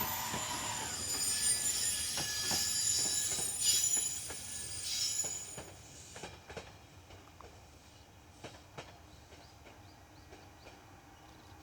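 Electric-hauled freight train running past on the main line, its wagons' wheels clicking over the rail joints with a thin high squeal. About halfway through the sound fades away as the train recedes, leaving a few faint clicks.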